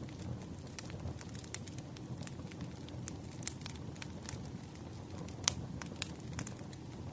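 Wood fire crackling: a steady low rumble with frequent irregular sharp pops and snaps, one louder pop about five and a half seconds in.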